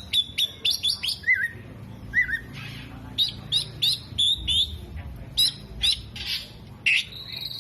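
Oriental magpie-robin singing a fast, loud run of sharp high chirps, short falling whistles and a few harsh rasping notes. The song mixes in mimicked calls of other birds, such as sunbirds and lovebirds.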